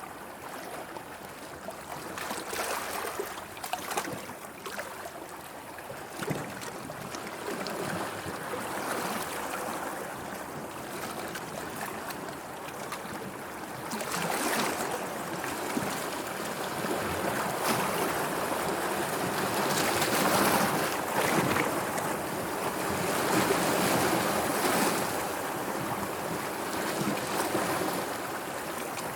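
Sea waves washing in and breaking in uneven swells, with wind. The wash grows louder about halfway through.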